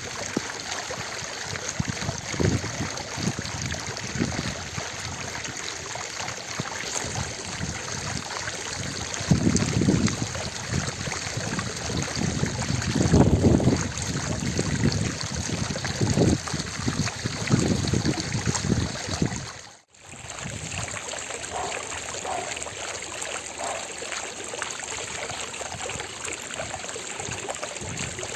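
Fountain water splashing and pouring continuously, a steady rushing hiss, with uneven low rumbling surges through the first two-thirds. The sound drops out for a split second about two-thirds of the way through, then the steady splashing resumes.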